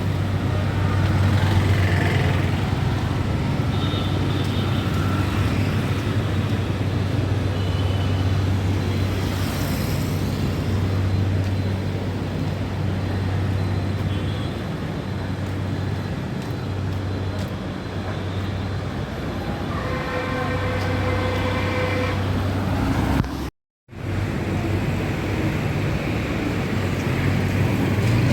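Steady road traffic on a busy city road, vehicle engines running past close by. A vehicle horn sounds for about two seconds near the end, and shortly after the sound cuts out completely for a moment.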